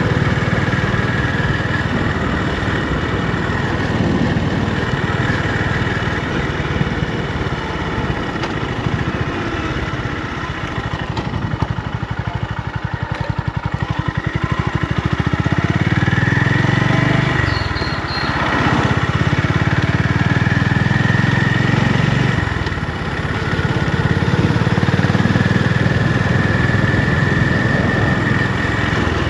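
Honda GB350's air-cooled single-cylinder engine and exhaust running at varying revs, the note falling and rising again, with two brief dips in loudness in the second half.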